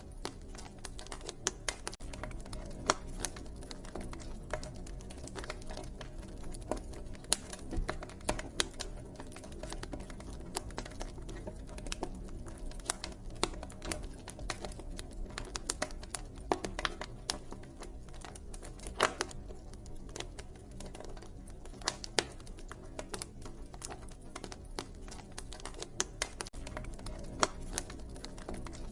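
Wood fire crackling: a dense, irregular stream of small snaps with occasional louder pops, over a low steady rumble.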